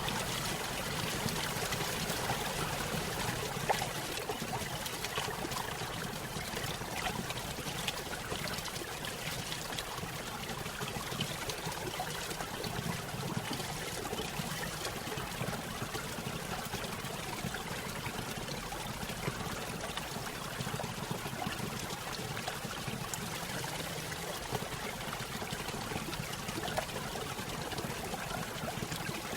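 Small stream spilling over a little waterfall: water trickling, splashing and pouring steadily.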